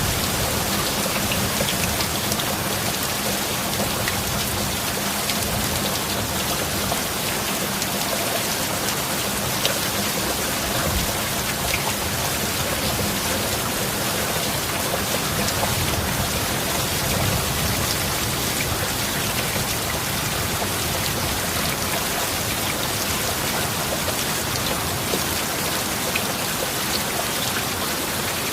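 Heavy rain falling steadily, a dense hiss with fine patter of individual drops. A low rumble of thunder is fading away at the very start.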